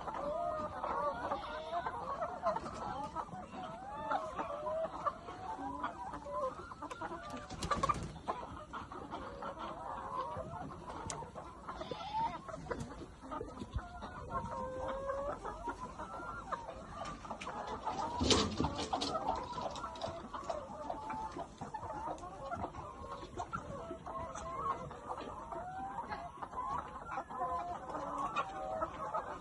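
A flock of chickens clucking continuously, many birds calling over one another. A sharp knock comes about eight seconds in, and a louder short clatter of knocks about eighteen seconds in.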